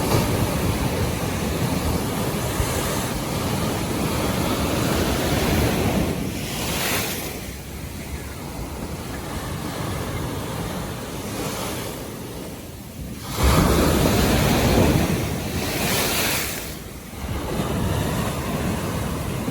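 North Sea waves surging and washing in, with wind buffeting the microphone. The noise swells and eases every few seconds, and a louder surge comes in suddenly about two-thirds of the way through.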